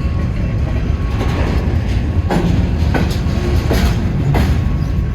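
Freight train cars rolling past: a steady low rumble of steel wheels on rail, with repeated clacks as the wheels cross rail joints.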